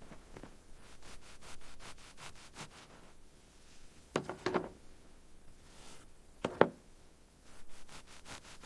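A run of small scrapes and clicks, with a louder double knock about four seconds in and a sharp single knock about two seconds later.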